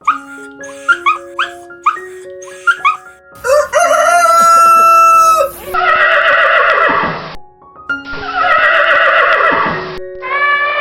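Background music with animal calls laid over it: a run of quick, falling chirps for about three seconds, then longer drawn-out calls.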